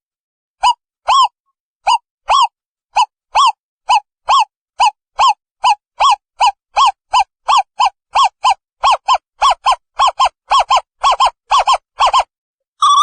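An owl calling in a long series of short, identical hoots that speed up steadily from about two a second to about four a second.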